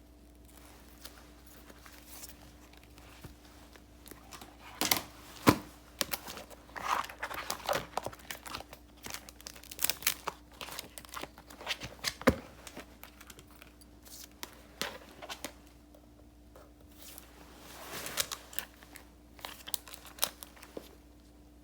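Sticker and paper sheets being handled: crinkling, rustling and sharp crackles in bursts, with a quiet stretch at the start and another in the middle, over a faint steady hum.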